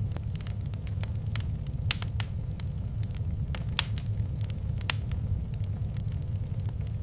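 Wood fire crackling in a fireplace: irregular sharp pops and snaps over a steady low rumble, with a few louder pops about two, four and five seconds in.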